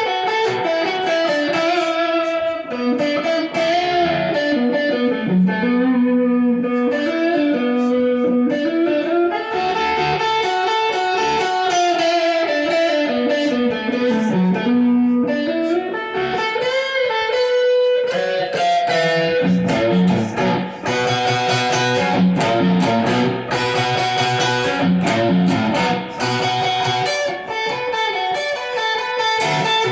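Electric guitar music: a continuous stream of notes, with pitches that slide up and down.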